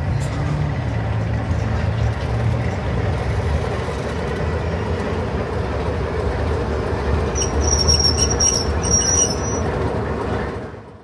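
Diesel locomotive and its carriages rolling slowly past, with the engine's low hum and a steady rumble of wheels on the track. About seven seconds in, the wheels squeal shrilly for two seconds, then the sound fades out at the end.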